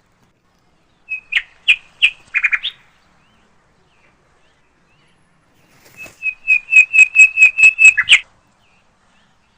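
A bird calling. It gives a few short chirps about a second in, then after a pause a loud, rapid run of clipped notes, about five a second, lasting around two seconds.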